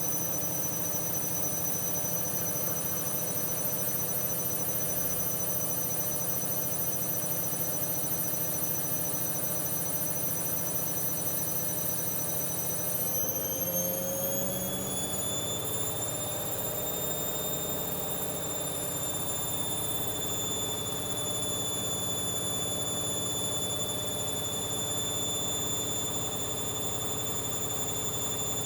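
Hoover Dynamic Next washing machine running, with a steady high-pitched motor whine over a low hum. About halfway through, the whine rises in pitch over a few seconds as the drum speeds up, then holds steady at the higher speed, as in a spin.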